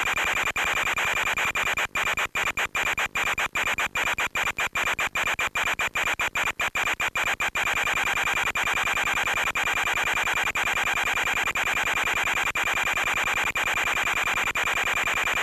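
Steady hiss of radio static with a thin high whistle running through it, cutting out in rapid brief dropouts between about two and seven seconds in.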